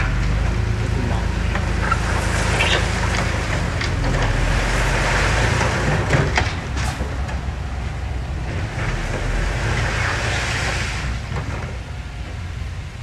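Heavy earth-moving machine's diesel engine running steadily under load, with two longer stretches of rushing, scraping noise over it, typical of soil being pushed or tipped.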